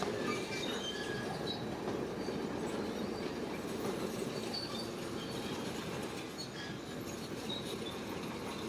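Shantui crawler bulldozer working: a steady rumble of engine and steel tracks, with short high squeaks from the track running gear scattered through it.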